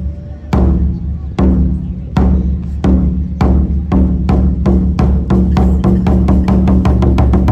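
Japanese taiko drums struck in an accelerating beat: heavy, deep strokes about a second apart speed up into a rapid run of several strokes a second near the end.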